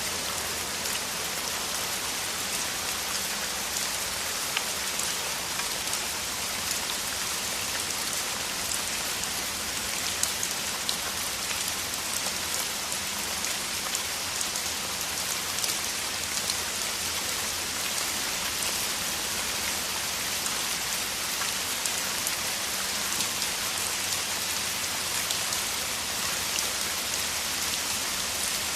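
Steady heavy rain falling, a dense even hiss with many small drop ticks.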